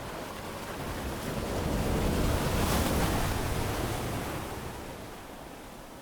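A wave breaking on a beach: surf noise swells to a peak a couple of seconds in, then washes out and fades.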